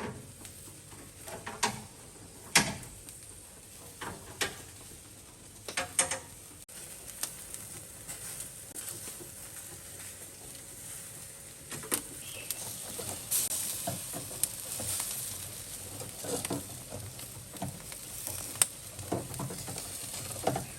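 Food sizzling on a hot grill, the hiss growing louder after about seven seconds, with sharp clacks and knocks scattered through it, most of them in the first several seconds.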